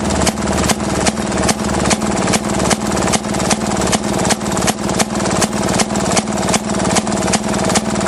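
Maytag Model 31 single-cylinder two-stroke engine running a wringer washer, a steady engine drone with a sharp knock repeating evenly about three times a second.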